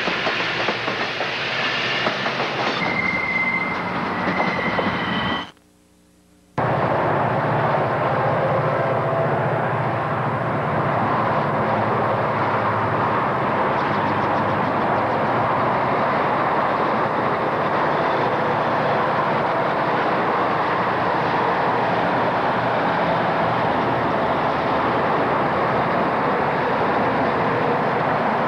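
Southern Pacific diesel locomotives passing close by, with engine and wheel-on-rail noise and a few brief high squeals about three to five seconds in. The sound drops out for about a second near six seconds in, then a steady train rumble runs on.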